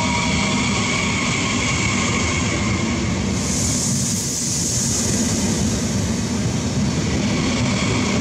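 ETR 400 Frecciarossa 1000 high-speed electric train moving along the platform: a steady rumble of wheels on rail, with several steady high whining tones that fade out about three seconds in. A high hiss follows for a couple of seconds.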